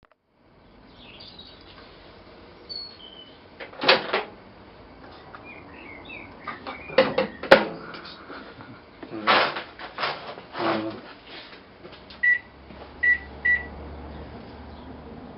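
Several loud knocks and clatter at a microwave oven, then three short keypad beeps and a low steady hum as the oven starts running.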